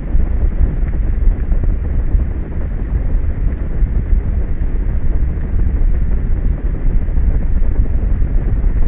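Wind blowing hard across the microphone: a continuous low rumble whose loudness rises and falls with the gusts.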